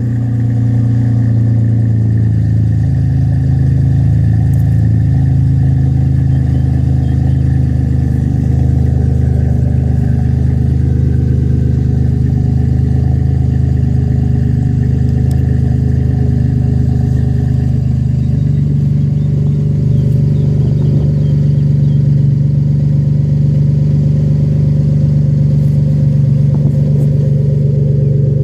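A 2015 Chevy Colorado's 3.6-litre V6 idling through a Flowmaster 40 Series cat-back exhaust: a steady, deep exhaust drone at low revs. Its tone shifts slightly about 18 seconds in.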